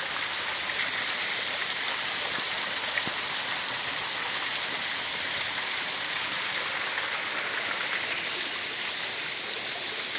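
Small mountain waterfall splashing and rushing steadily, a constant hiss of falling water that does not let up.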